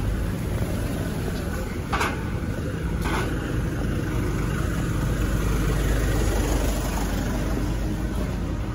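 Car engines running close by, a steady low rumble, with two short clicks about two and three seconds in.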